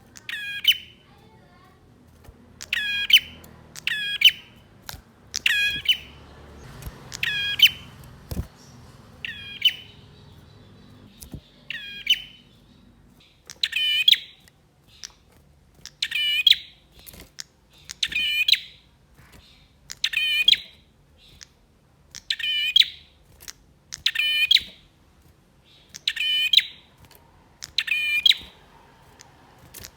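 Male prinia (prenjak) singing a loud, high-pitched call over and over, each a short, rapid burst of sharp chirps, repeated roughly every one to two seconds.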